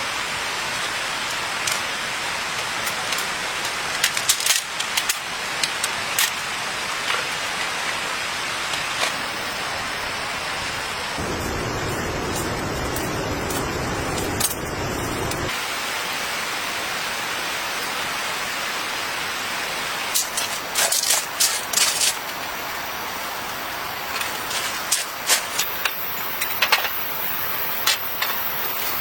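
Steady rain falling, with scattered sharp clicks and knocks over it. For about four seconds in the middle the sound turns duller and lower.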